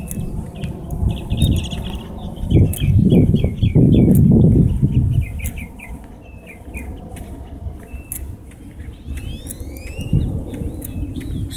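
Birds chirping in a long series of short calls, with a few rising whistled calls about nine to ten seconds in. A low rumble on the microphone is loudest from about two and a half to five seconds in.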